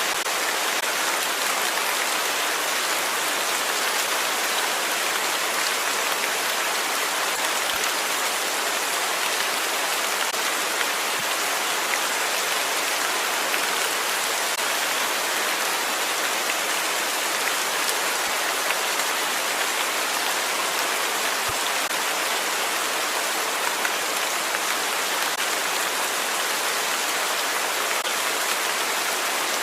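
Steady rain falling on a surface, an even hiss that doesn't change.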